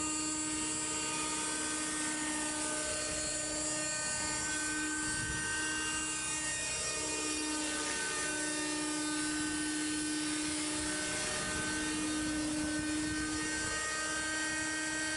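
Raptor 30 nitro RC helicopter in an MD 500 scale body flying, its small glow engine and rotors giving a steady, high-pitched whine that wavers slightly in pitch as it moves.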